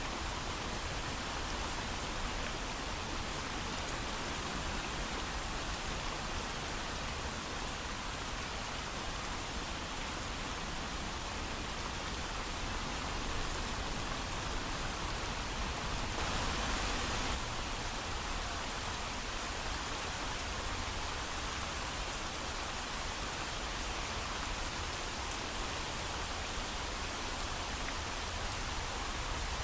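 Steady heavy rain falling, an even hiss with no thunder, briefly a little louder about halfway through.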